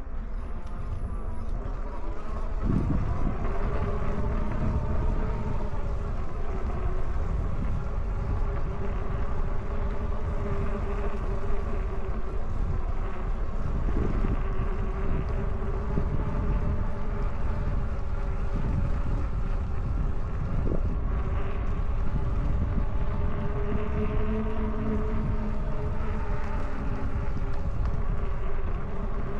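Wind buffeting the microphone while riding an e-bike, with the electric hub motor's faint whine slowly rising and falling in pitch as speed changes.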